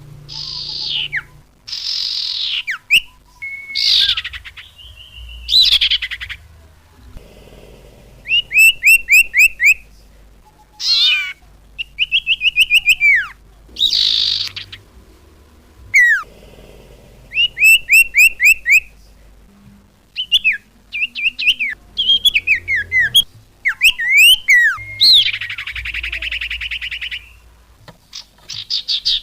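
Small songbird calling in loud, separate bursts: sharp high whistled notes and rapid runs of short repeated chirps, a little under a second each, with short pauses between them. This is a bird-luring call for trapping or training songbirds.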